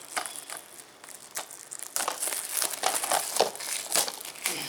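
Plastic Blu-ray case being handled and opened: irregular plastic crinkling with small clicks, sparse at first and busier from about two seconds in.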